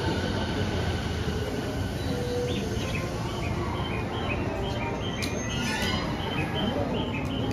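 JR East E217-series electric train moving slowly along a station platform: a steady rumble of wheels and running gear with some wheel squeal. A run of short high tones sounds over it in the middle.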